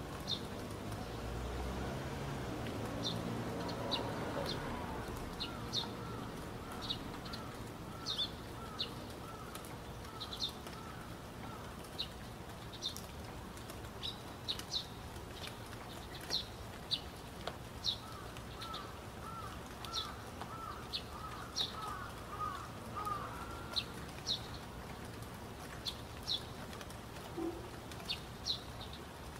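Birds singing: short high chirps every second or so, with two runs of about a dozen lower repeated notes, over a steady hiss.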